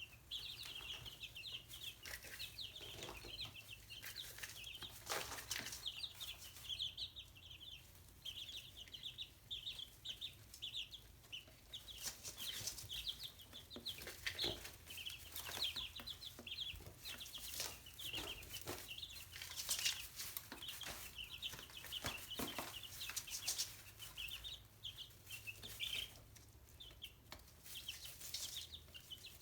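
Chicks peeping almost without pause in quick, short, high notes, with scattered sharp taps among them.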